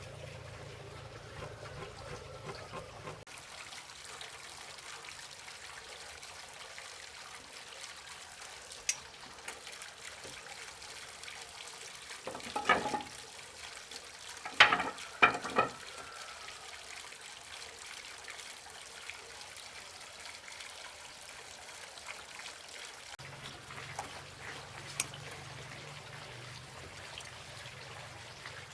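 Water trickling steadily, with a few brief sharp sounds about halfway through.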